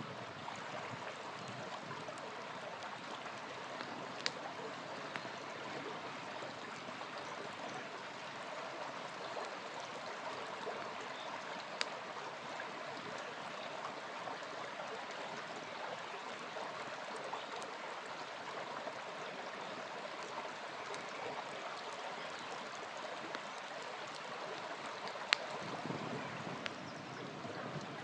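Small river flowing steadily, with a campfire giving a few sharp pops and crackles, the loudest near the end.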